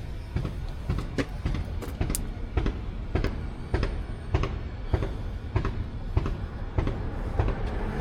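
Irregular light metal clicks and taps from parts being handled and fitted into a 4x4 truck's front hub, over a low steady rumble.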